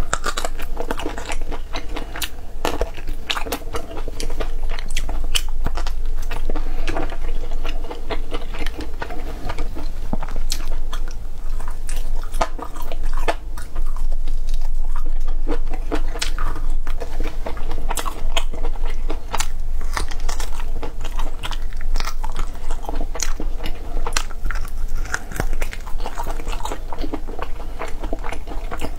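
Close-miked chewing and biting of braised meat, with many quick, irregular crunchy clicks as the mouthfuls are bitten and chewed, picked up by a clip-on microphone.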